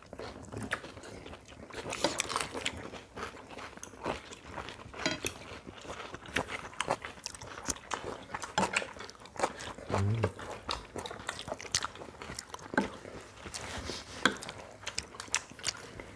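People chewing and biting food, a run of short irregular clicks and crunches.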